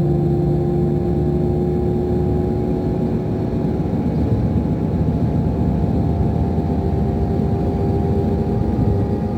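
Scania DC13 inline-six diesel of a Scania K440 coach running steadily under way, heard from inside the coach: a low rumble with a steady whine on top. One whine tone fades out about four seconds in, while a higher whine climbs very slowly in pitch.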